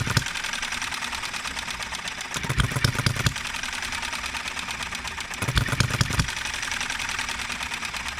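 Enjomor 6cc hit-and-miss model engine running: a steady rapid clicking while it coasts, broken about every three seconds by a short burst of firing strokes. Its firing is not yet even, as it is still being tuned.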